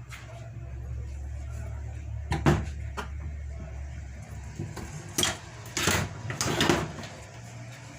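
Small metal parts of a motorcycle starter motor being handled and cleaned on a workbench: a couple of sharp knocks, then three short noisy scrubbing strokes. A steady low hum runs underneath.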